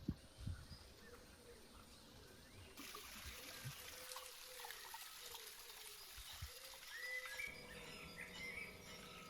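Faint outdoor ambience like trickling water, with a few short rising chirps a couple of seconds before the end.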